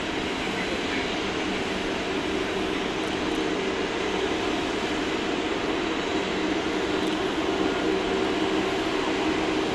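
Airbus A380-861's four Engine Alliance GP7200 turbofans running at taxi power: a steady jet hum with a low drone, getting slightly louder in the second half.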